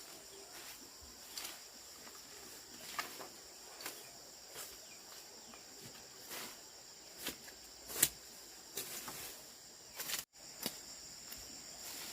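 Steady high-pitched chorus of insects, with irregular sharp clicks and snaps scattered through it; the loudest snap comes about eight seconds in.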